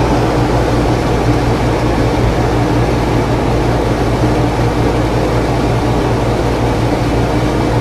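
Whynter 14,000 BTU dual-hose portable air conditioner running: a steady rushing noise with a low hum underneath, reading 75.9 decibels on a sound level meter.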